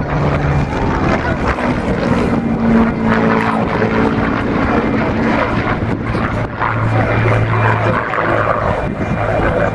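Aircraft flying past with a loud, steady engine noise whose note drops in pitch partway through as it goes by.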